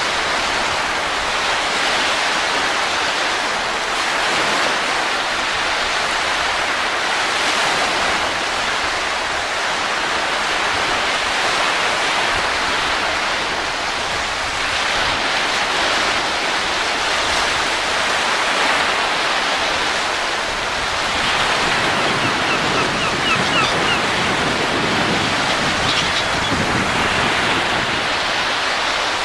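Steady rushing wind, swelling and easing slowly, with a few faint short high chirps about three quarters of the way through.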